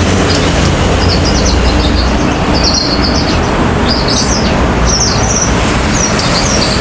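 Javan bush lark (branjangan) singing a rapid string of short, high chirps, over loud, steady background noise of engines and road traffic.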